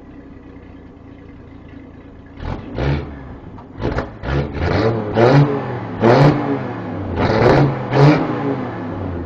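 Engine of a 1961 International Harvester C-120 Travelette truck, freshly cold-started, idling and then revved in a quick series of about nine throttle blips from about two and a half seconds in. It settles back toward idle near the end.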